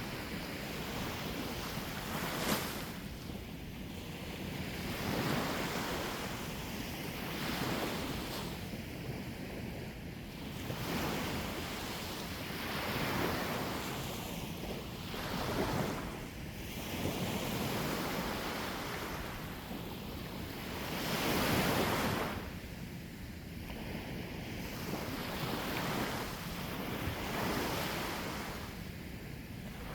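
Sea waves breaking and washing onto the shore, swelling and ebbing every few seconds, with wind buffeting the microphone.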